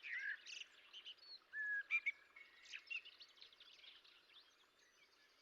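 Faint birdsong from several birds: quick chirps and short whistled notes, some gliding, busiest in the first three seconds and then thinning out.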